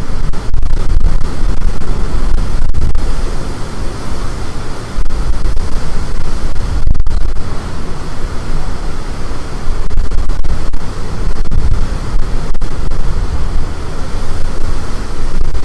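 Storm wind buffeting the microphone: a loud, low rumbling rush that surges and eases in gusts.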